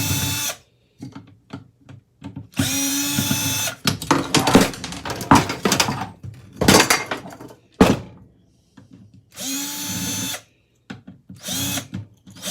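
Power drill running in short bursts of about a second, four or five times, as screws are driven out of a ceiling fan's parts. Metal clinks and rattles of loose parts and screws come between the runs, busiest in the middle.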